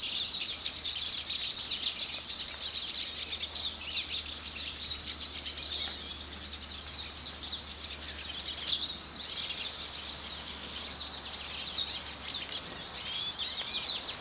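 Many birds feeding together, chirping continuously in high, short, overlapping calls.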